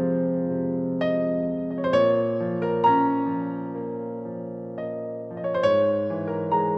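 Slow, gentle piano music: a few chords and notes struck at unhurried intervals and left to ring out.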